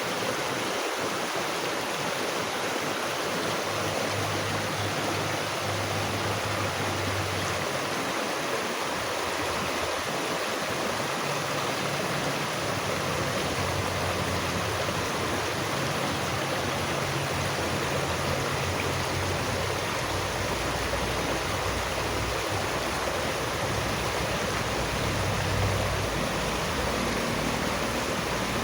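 Running water of a stream, a steady even rush with a shifting low rumble underneath.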